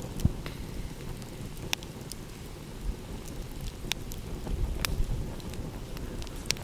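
Wood fire crackling, with a handful of sharp pops scattered through it, over a steady low rumble of ocean waves.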